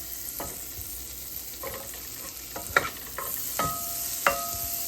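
Butter melting and sizzling in a hot pot, with a utensil stirring and knocking against the pot several times; the louder knocks ring briefly.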